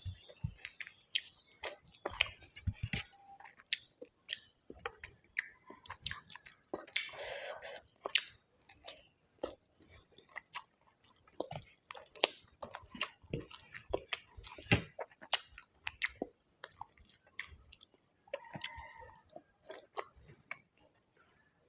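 Close-up chewing of a person eating a meal of rice and curry, with many small wet mouth clicks and smacks.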